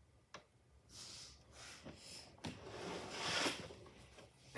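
Rustling and rubbing handling noise, with a sharp click about a third of a second in, swelling to its loudest around three seconds in and fading near the end.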